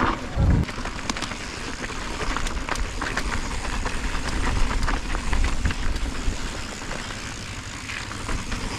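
Mountain bike riding down a rocky trail: tyres crunching over rock and the bike rattling in quick clicks, over a steady rumble of wind on the microphone, with a heavy thump just after the start.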